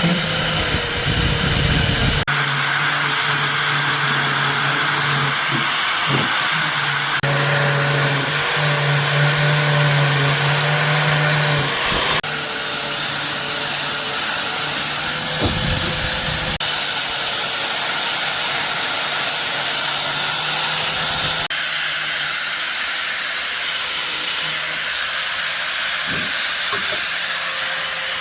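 A power tool running steadily with a loud hiss over its motor hum. The sound shifts abruptly every few seconds.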